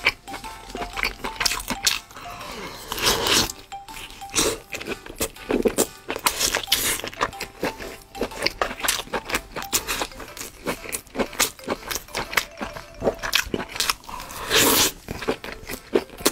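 Close-up eating sounds of a person biting and chewing food, a dense run of sharp clicks throughout, over faint background music.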